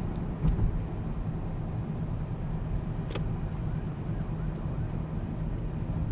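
Car driving slowly: a steady engine hum and road noise picked up by a camera mounted outside on the hood. Two brief clicks come about half a second in and about three seconds in.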